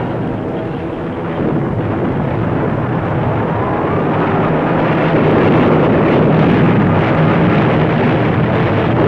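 A steady roar of engine noise that grows louder toward the middle, with a faint rising whine about four seconds in.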